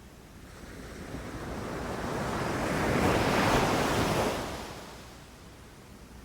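Ocean surf: a single wave swells up, breaks with a hissing rush about three to four seconds in, and washes back down.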